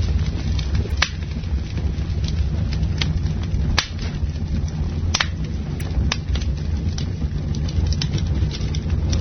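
Campfire burning with a steady low rumble of flames and irregular sharp crackles and pops from the burning wood, a few louder snaps among them.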